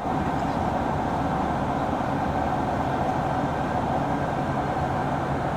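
Steady cabin noise inside an airliner in flight: the even rush of engines and airflow with a constant low hum.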